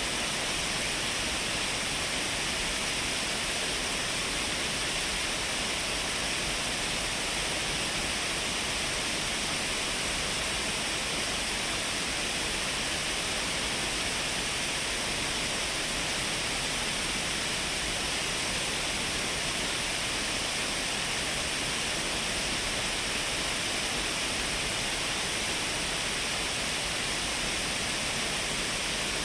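Shiraito Falls, a wide curtain of many thin streams of water, falling steadily: an even, unbroken rush, strongest in the upper-middle pitch range, in a binaural recording.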